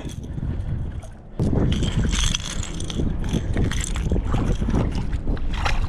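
Strong wind buffeting the microphone in a deep, steady rumble, with water splashing and sloshing around a wading angler; the rumble drops briefly near the start and comes back loud about a second and a half in.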